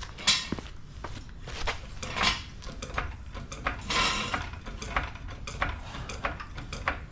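Metal tools and parts clinking and clattering in short sharp knocks, with a brief scraping hiss about four seconds in.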